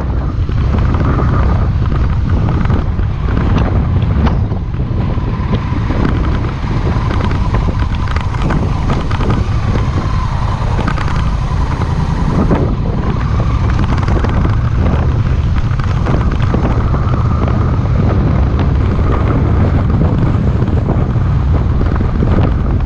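Honda Rebel 1100's parallel-twin engine running under way, with heavy wind buffeting on the microphone.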